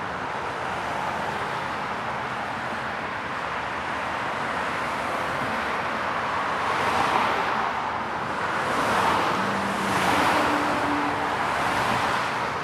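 Several cars passing by one after another: a steady rush of road and tyre noise that swells with each pass, about three swells in the second half, laid end to end with crossfades as a traffic sound-effect track.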